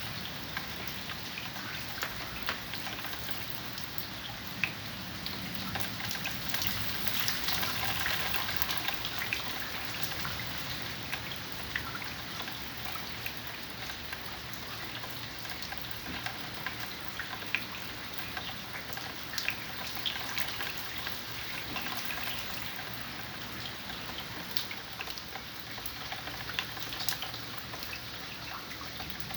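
Steady rain falling, with many individual drops tapping and dripping on hard surfaces close by; a little heavier for a few seconds early on.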